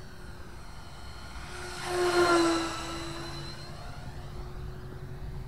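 Whine of the 64mm electric ducted fan on an RC F-16 jet in flight, a steady tone that swells into a louder rushing pass about two seconds in, its pitch dropping slightly as the jet goes by, then settles back to a distant steady whine.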